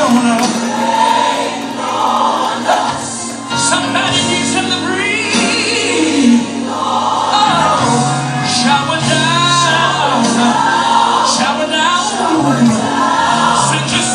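Gospel worship music: a choir and singers over a steady instrumental accompaniment.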